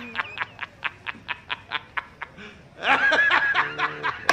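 A snickering laugh: a quick run of short 'heh' pulses, about five a second, for roughly two seconds. It is followed near the end by a brief high, wavering voice-like sound and a lower steady tone.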